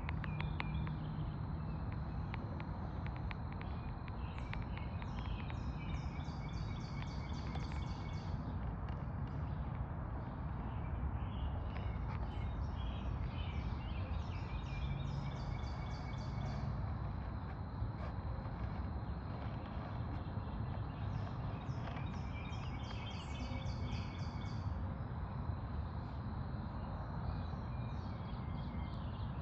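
Steady low hum of a laboratory vibrating plate running. Over it, a bird repeats a phrase of rapid high notes every few seconds.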